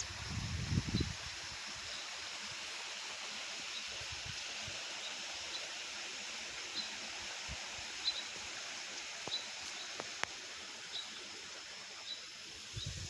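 Steady babble of a small stream of running water, with a small bird giving a short, high chirp about once a second. A brief low rumble sounds in the first second.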